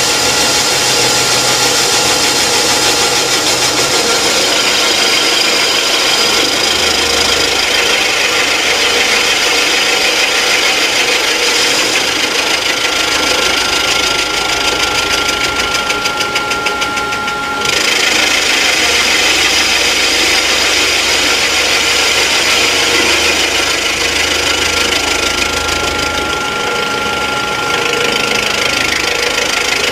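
Rottler F90Y CNC machining centre cutting metal while machining out a water hole for repair: a steady grinding cutting noise with a thin high whine, which dips briefly and changes about 17 seconds in.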